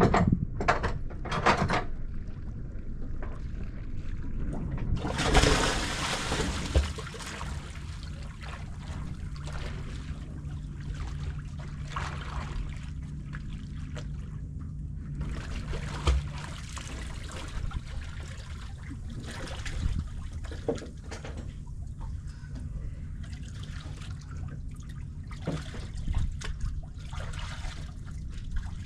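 Water sloshing and trickling around a boat, with small splashy clicks, a louder rushing noise about five seconds in and a steady low hum from about seven to sixteen seconds.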